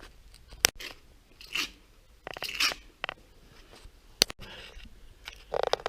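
Short scrapes and crunches, with two sharp clicks, one under a second in and one about four seconds in.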